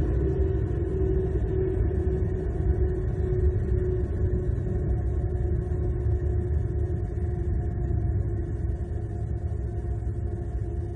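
Steady low rumble with a faint steady hum, picked up by an outdoor wildlife-cam microphone.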